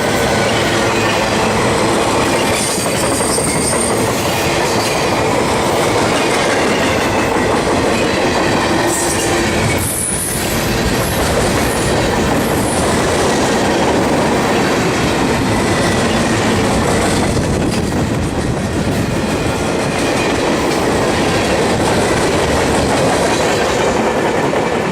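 Freight train cars rolling past on the rails, a loud steady rumble of wheels and cars, with brief high-pitched wheel squeals a few seconds in and again around the middle.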